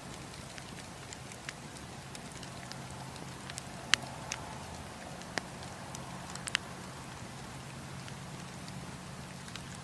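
Wood campfire crackling: scattered sharp pops and snaps, the loudest about four seconds in and a small cluster a couple of seconds later, over a steady low rush of flame and wind.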